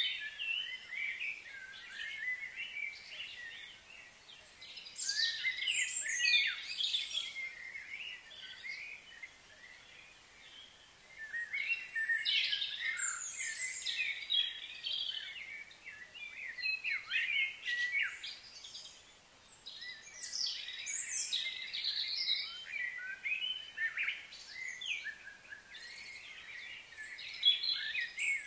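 Small birds chirping and twittering in quick high flurries every few seconds.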